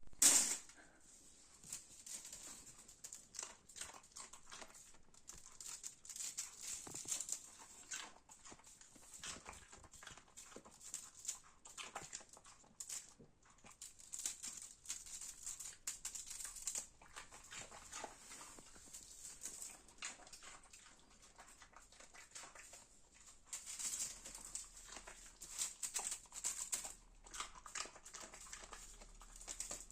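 A dog eating, with irregular wet smacking and crunching chewing noises coming in uneven clusters.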